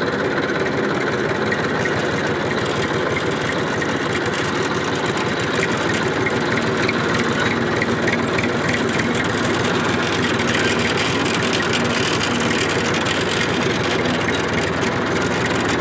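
Massey Ferguson tractor's diesel engine running steadily, with a fast, even firing beat.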